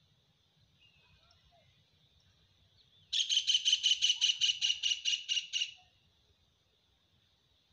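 A bird calling: a fast, even run of about sixteen sharp repeated notes, about six a second, starting about three seconds in and lasting just under three seconds.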